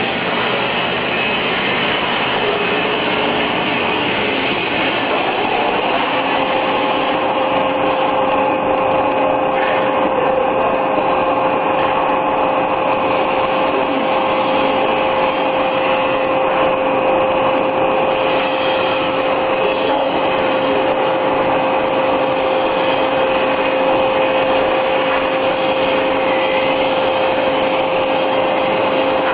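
Machinery running steadily with a loud, even noise, joined about six seconds in by a steady whine.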